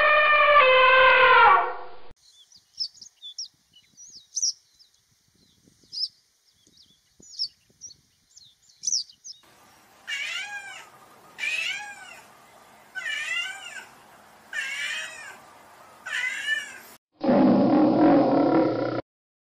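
An elephant trumpeting for about two seconds at the start, followed by faint, scattered high chirps. Then a domestic cat meows five times, and near the end a lion roars loudly for about two seconds.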